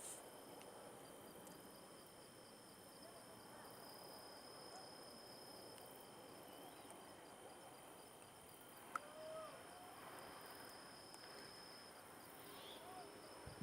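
Faint night ambience of insects trilling steadily at a high pitch, one trill pulsing evenly. A single click comes about nine seconds in, with a few brief faint pitched calls around it and again near the end.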